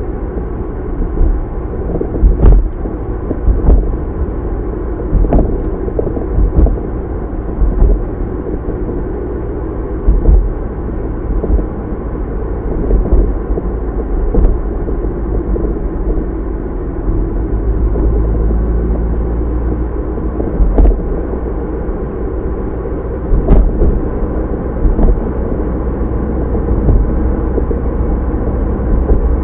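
Car being driven, heard from inside: a steady rumble of road and engine noise. About a dozen short, sharp knocks come at irregular moments.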